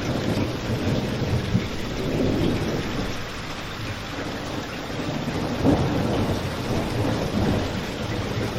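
Steady rain with a crackling fireplace, over a low, shifting rumble; one sharper pop about six seconds in.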